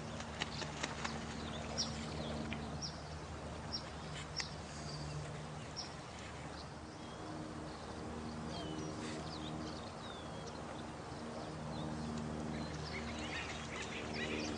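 Night nature soundscape of steady running water, with short high chirping calls from small animals scattered through the first half and growing denser near the end, over faint low humming tones.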